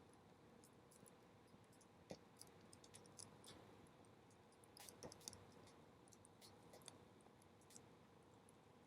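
Bonfire burning quietly, its wood giving off faint, scattered crackles and small pops, a few slightly louder about two and five seconds in.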